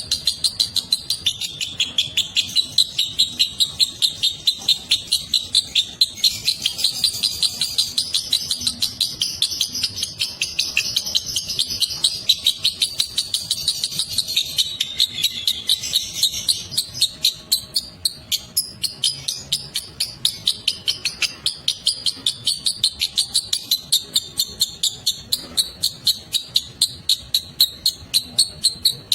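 Lovebird singing a long 'ngekek' chatter: shrill chirps repeated in a rapid, steady series of about four to five a second.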